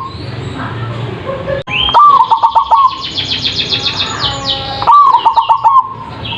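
Zebra dove (perkutut) song: two cooing phrases, one about two seconds in and one about five seconds in, each an opening coo followed by a quick run of about six clipped notes. Between them comes a fast run of high, falling notes from another bird.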